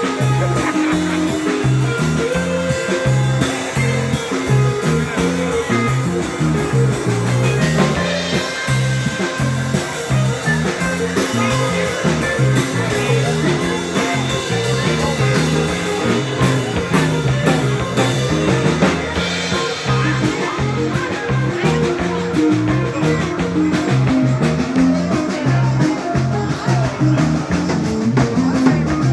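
Live rock band playing an instrumental jam: electric guitar and bass over a steady drum-kit beat.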